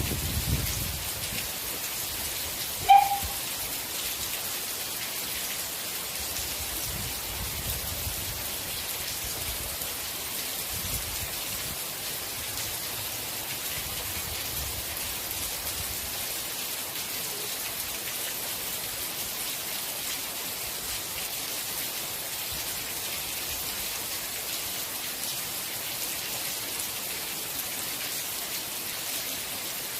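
Steady rain falling, an even hiss of drops with soft low rumbles now and then. A single short, sharp sound rises above the rain about three seconds in.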